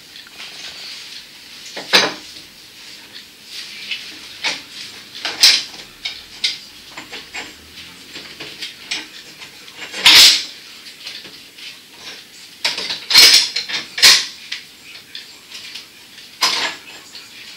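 Scattered sharp clinks and clatters of hard objects, a dozen or so at irregular intervals, the loudest and longest about ten seconds in.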